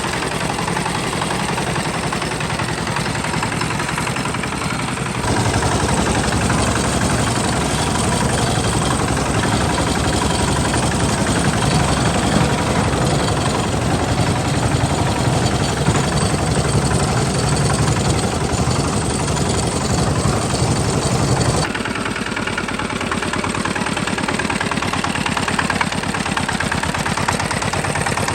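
Tractor engine running steadily, stepping up suddenly to a louder, heavier sound about five seconds in and dropping back just as suddenly near the end.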